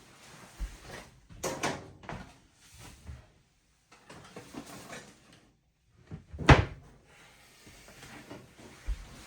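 LG WT7600HVA top-load washing machine early in its cycle, giving off scattered clunks and knocks with short quiet gaps; the loudest is a sharp thud about six and a half seconds in.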